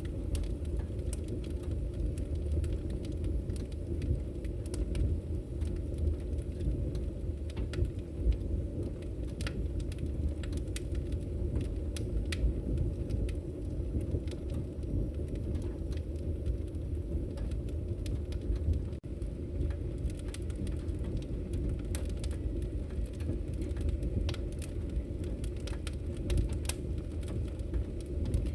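Campfire crackling: a steady low rumble of the flames with frequent sharp pops and snaps from the burning wood, scattered irregularly throughout.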